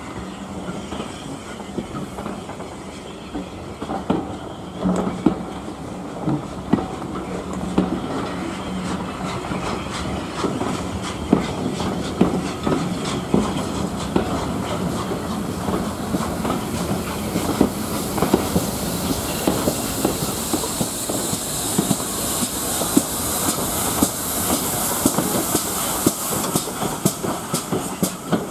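Steam-hauled train running on the line, its wheels clicking over the rail joints in an uneven run of knocks. A steam hiss grows louder through the second half.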